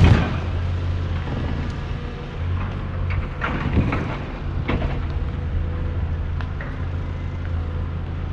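A heavy diesel machine's engine runs steadily as it crushes and breaks up a boat's hull. There is a loud crunching crash at the start and more cracking crunches about three to five seconds in.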